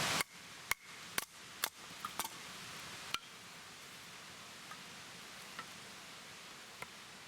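A steady rushing noise cuts off suddenly, then come sharp knocks at uneven intervals: about six in the first three seconds, then three fainter taps.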